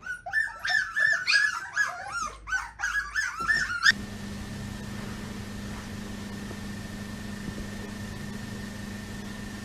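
A dog whining and whimpering in a quick run of high, wavering cries for about four seconds. The cries cut off suddenly and a steady hum takes over.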